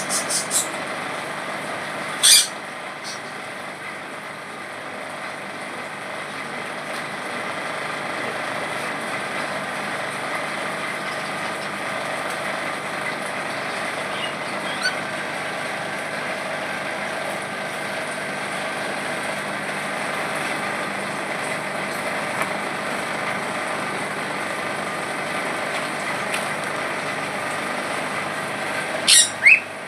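A steady mechanical hum throughout, with a few short, sharp, high calls from a pet bird such as a cockatiel: one about two seconds in, a faint one midway, and two near the end, the last rising quickly in pitch.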